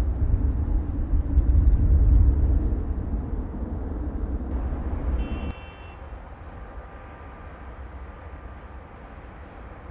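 Strong wind buffeting the microphone: a loud, uneven low rumble that drops sharply about five and a half seconds in to a quieter steady rumble.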